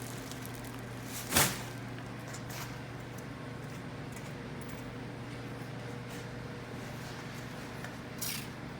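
Steady low hum of a workshop's background noise, broken by one sharp knock about a second and a half in and a few faint handling clicks near the end.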